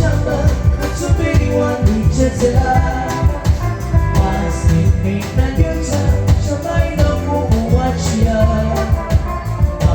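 A live band playing music with a steady beat and strong bass.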